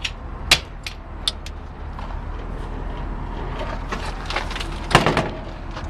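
A steady low hum from the idling engine of a 2002 Chevrolet 2500 catering truck. Over it come a few sharp clicks in the first second and a half and a louder knock about five seconds in.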